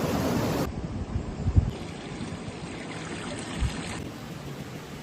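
Outdoor ambience of running water, a steady rushing noise with a few low wind buffets on the microphone. It drops abruptly in level under a second in and changes again near the end.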